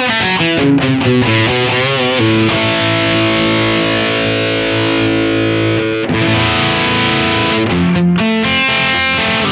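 Distorted electric guitar played through a Boss GT-1000 modeler's "Maximum" amp model, set for a JCM 800-style crunch tone. Quick lead phrases with vibrato, then a long held chord in the middle, then faster notes near the end.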